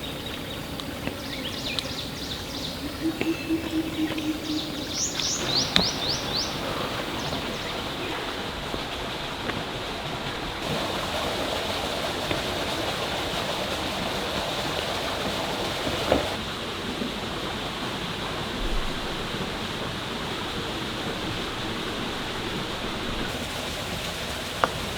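Waterfall's steady rush of falling water, with a short run of quick high chirps about five seconds in.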